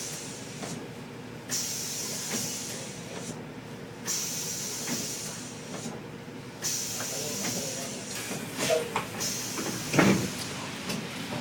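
Cabin noise of an articulated city bus in the rain: a steady hiss that drops away briefly about every two and a half seconds, over a low rumble, with small rattles and one louder thump about ten seconds in.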